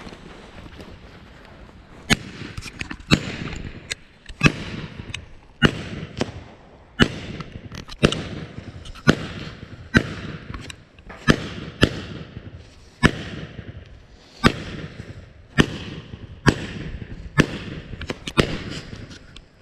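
Consumer fireworks cake (Busy Bee) firing a string of shots, one sharp bang roughly every second from about two seconds in, about sixteen in all, each fading out briefly after it.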